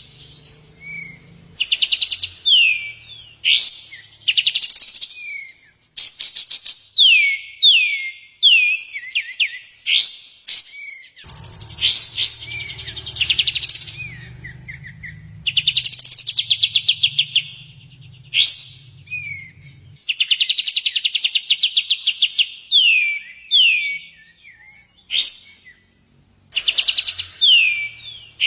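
Songbird singing in fast, high-pitched phrases: rapid trills of repeated notes and quick downward-sweeping whistles, in bursts a second or two long with short gaps between.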